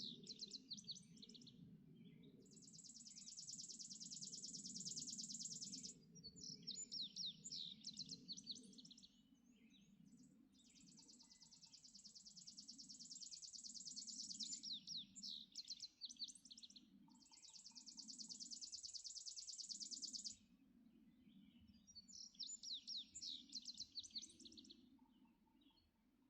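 Quiet dawn birdsong: a long, dry, high trill of about three to four seconds, repeated three or four times, alternating with bursts of quick high chirping notes. A steady low rumble runs underneath.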